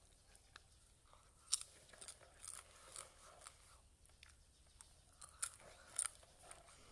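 A person chewing popcorn: a faint run of short, crisp crunches, the loudest about one and a half seconds in and twice near the end.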